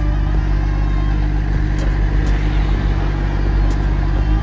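BMW M2's turbocharged straight-six engine idling steadily through its exhaust.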